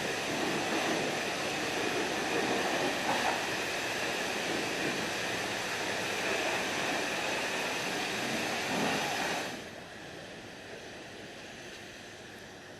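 High-pressure spray wand of a self-service car wash blasting water onto a truck and its snow plow: a steady hiss and spatter that cuts off abruptly about three-quarters of the way through, leaving a lower steady background noise.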